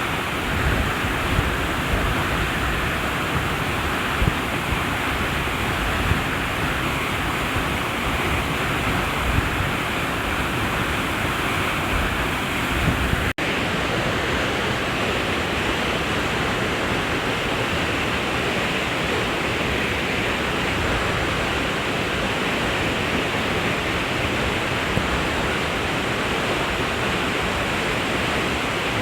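Falling water of a stream waterfall rushing steadily, with low bumps on the microphone in the first half. About thirteen seconds in, a momentary dropout breaks the sound before the rushing carries on.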